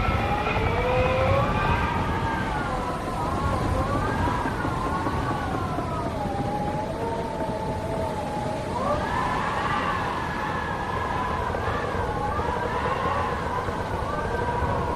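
Wind howling: a wavering whistle that slides slowly up and down in pitch, climbing higher about nine seconds in, over a steady low rumble of gusts.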